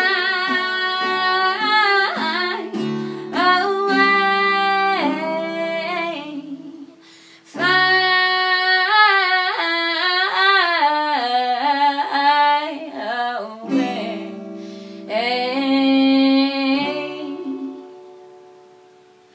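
A woman singing long, wordless melodic phrases over strummed acoustic guitar, in three phrases with short breaks between them, fading out near the end.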